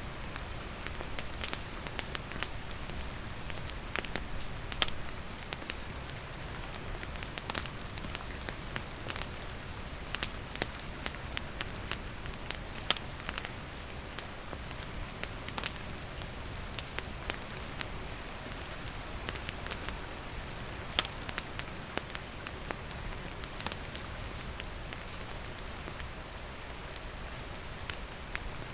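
Steady rain falling together with a crackling wood campfire, with frequent sharp pops and ticks over an even hiss.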